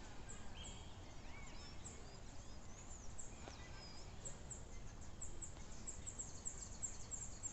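Birds chirping and calling over and over, with short high chirps and sliding whistled notes, over a faint low steady rumble.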